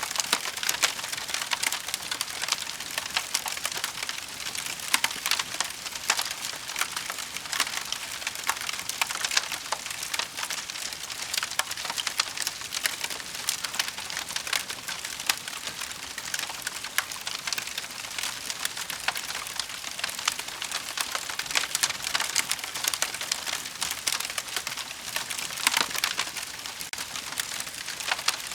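Wood fire burning in a fireplace: a steady hiss with dense, constant crackling and small pops of the burning logs.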